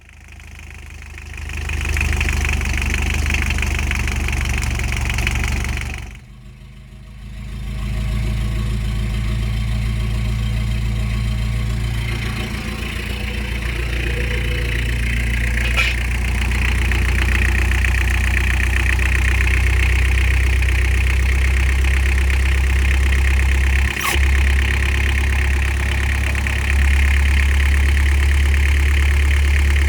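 Toyota Land Cruiser LJ70's 2.4-litre turbo-diesel engine starting and idling on its freshly fitted timing belt. Its sound sinks away about six seconds in and builds back up a second or so later, then it runs steadily, with a sharp click about halfway through and another near the end.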